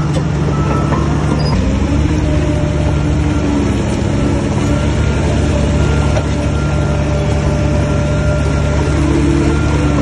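Heavy diesel engine of earthmoving machinery running steadily under load, with a thin high whine held through the middle.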